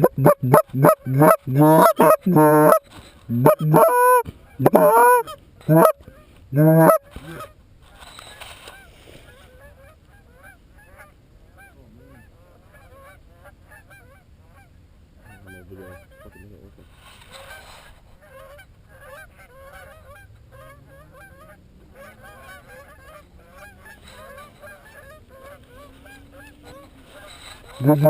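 Goose honking: a loud, rapid series of honks for about seven seconds, then fainter, scattered honks of a flock further off, with loud honking starting up again at the very end.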